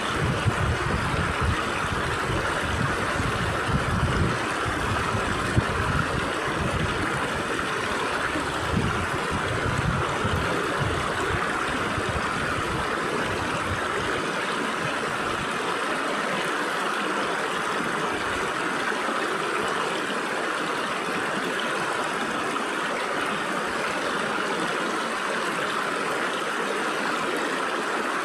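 Water in a small stream flowing and trickling through gaps between rocks, a steady rushing hiss. Low rumbling gusts come and go through the first half and die away about halfway.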